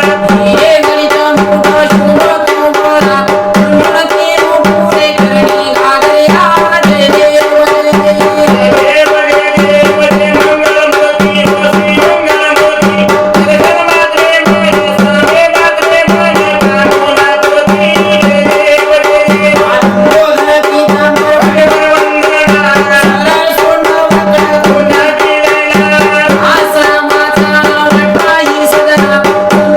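Sambal, the Maharashtrian pair of stick-played folk drums, playing a steady repeating beat in folk music, under a held, wavering melody.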